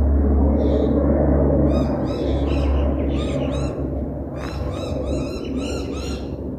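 Low rumble of a jet airliner passing, easing off about two seconds in, while a bird calls repeatedly in quick runs of short, arching chirps.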